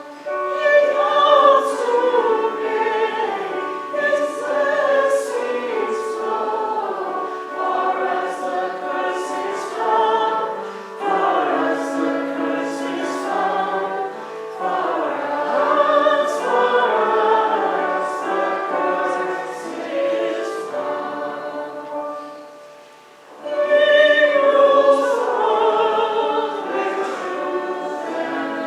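Many voices singing a hymn together in a church, with a short pause between phrases a little before the end.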